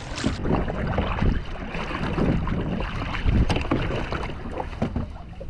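Kayak being paddled: irregular paddle strokes and water splashing, with wind rumbling on the microphone.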